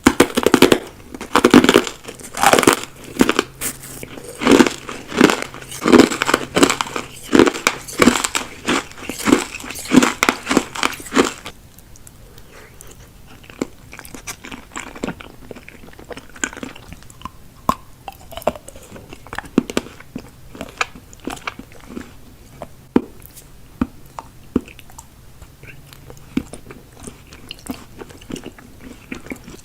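Close-miked ASMR eating: loud, crisp crunching and chewing of food with many rapid bites for about the first eleven seconds, then after a sudden change, much softer chewing and wet mouth clicks.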